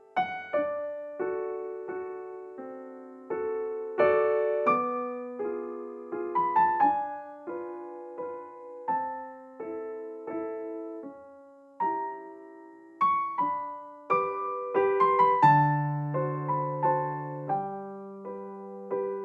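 Soft background piano music: a slow melody of struck notes over held chords, with a lower bass note coming in about three quarters of the way through.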